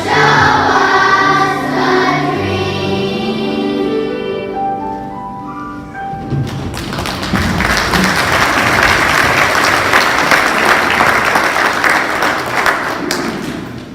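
Children's choir singing with accompaniment, the song winding down to a few held closing notes about five seconds in; then the audience applauds, and the applause dies away just before the end.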